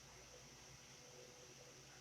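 Near silence: faint steady hiss and room tone.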